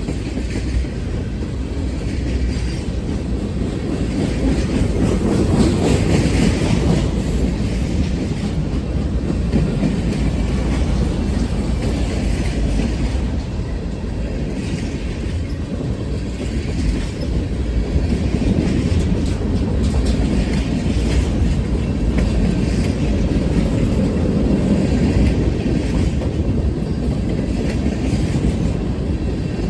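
Train cars rolling past, a continuous noise of steel wheels on the rails with occasional clicks.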